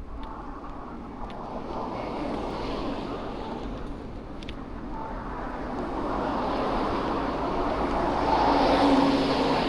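A motor vehicle passing close by on the street: a rushing noise that builds steadily to its loudest near the end, then starts to fade.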